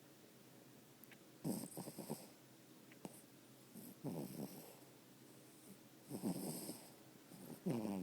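Sleeping dog snoring: four snores about two and a half seconds apart, with quiet breathing between them.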